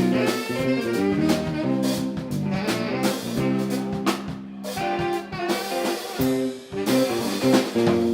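Live funk band playing an instrumental tune, with horns, guitar and drum kit.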